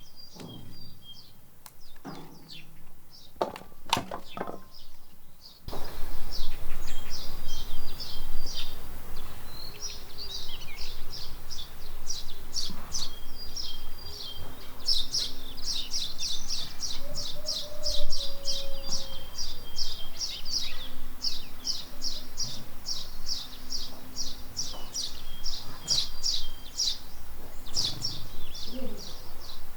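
Small birds chirping in quick, repeated runs, thick and almost unbroken once they start about six seconds in, over a steady background hiss. Before that there are only a few faint knocks.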